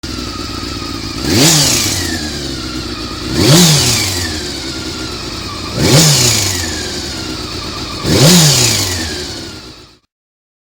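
Honda CBR400RR inline-four engine idling and blipped four times, the revs rising sharply and falling back each time; it cuts off suddenly near the end. The engine makes an abnormal noise that the owner suspects comes from the cam gear train.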